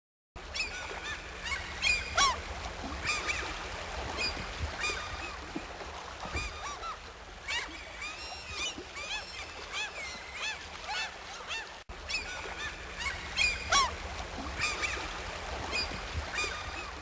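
Many birds calling at once: a dense run of short cries that slide up and down in pitch, over a steady low hum. The sound starts abruptly just after the start and cuts out for an instant about two-thirds of the way through.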